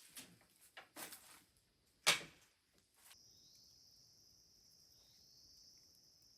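A few soft rustling steps and one sharp knock about two seconds in, then a steady high-pitched insect trill from about halfway through.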